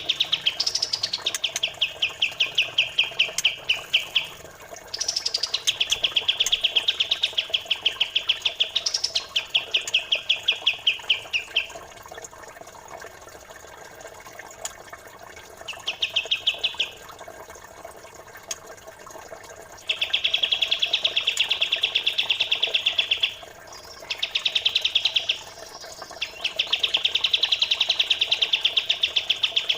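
Songbird tutoring recording: runs of very rapid, tightly spaced chirps lasting a few seconds each, some opening with a short upward note, with a quieter gap in the middle. A faint flowing-water trickle runs underneath.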